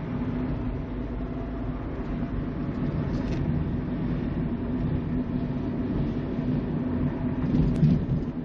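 Steady road and engine noise of a moving car heard from inside the cabin, a low hum with tyre rumble. A brief sharp knock comes near the end.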